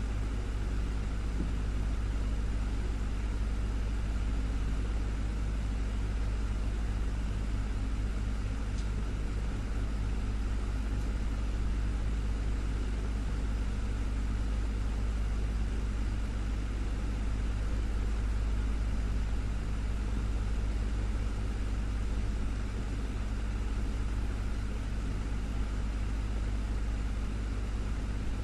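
Desktop fan running steadily: a constant low hum with an even rush of air.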